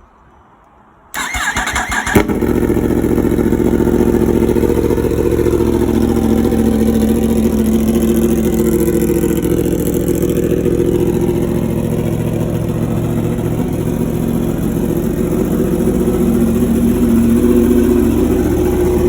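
Yamaha R1's inline-four engine cranked by the starter about a second in, catching after about a second and then idling steadily.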